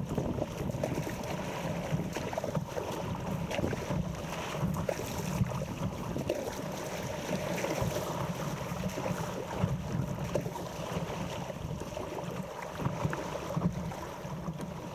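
Wind buffeting the microphone in an uneven low rumble, over water sloshing and splashing around an inflatable stand-up paddleboard.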